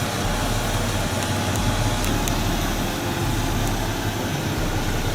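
Large wood grinder running under load: a steady engine drone with a low hum under a rough, noisy grinding haze, and a few faint ticks.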